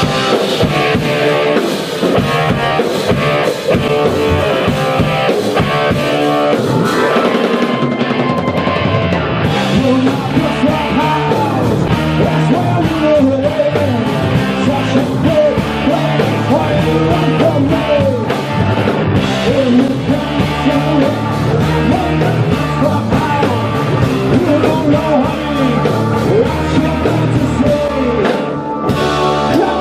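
Live blues-rock band playing: a drum kit driving a steady beat under bending melodic lines and singing.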